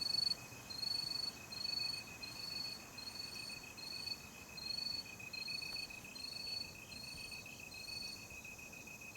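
Night insects chirping. One gives a steady, fast-pulsed trill. Above it, a higher chirp repeats about every two-thirds of a second and stops near the end.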